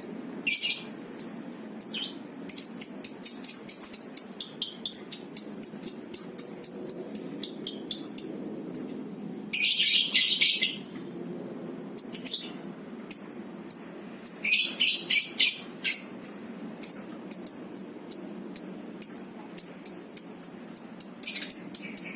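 Lovebird chirping in fast runs of short high-pitched chirps, several a second, broken by two longer harsh calls about ten and fifteen seconds in.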